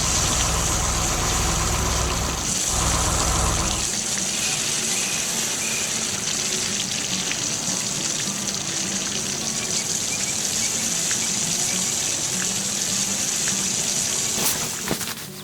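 Water rushing and gushing steadily, with a deep rumble underneath for the first four seconds that stops abruptly.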